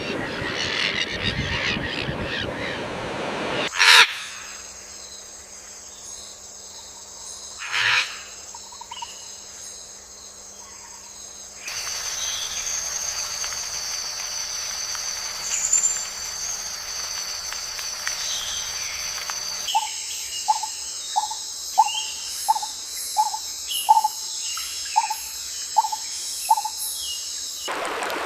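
Wild ambience with a steady high-pitched buzz, changing abruptly every few seconds, and in the last third a run of short repeated calls about two a second, typical of a bird calling.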